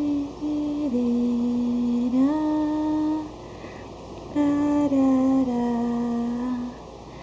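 A voice humming a slow wordless tune: held notes that step up and down in pitch, in two phrases with a short pause between them.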